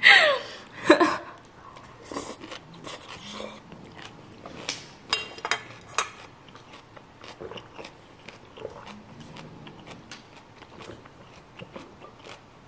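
Close-miked eating: a mouthful of curry noodles being chewed, with scattered wet clicks and soft chews spread over the seconds. A short falling vocal sound comes right at the start and is the loudest part.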